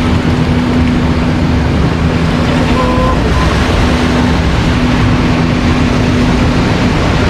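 Steady rush of ocean surf and wind at the beach, with a constant low hum, like a distant engine, running under it.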